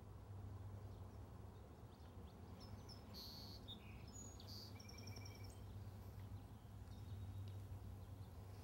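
Quiet outdoor ambience with a low steady hum, and a few bird chirps and two short trills in the middle.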